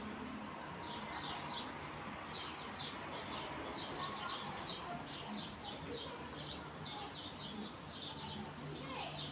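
Small birds chirping: a steady stream of short, high chirps, several a second, over a faint low steady hum.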